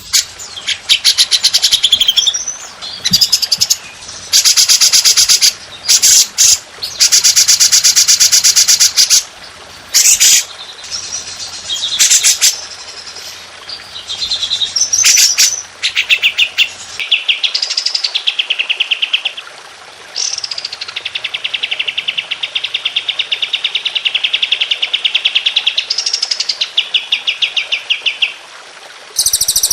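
Songbirds singing very rapid, dense trilled phrases ('tembakan', the fast rattling runs prized in Indonesian songbird masteran), one after another, some trills held for several seconds.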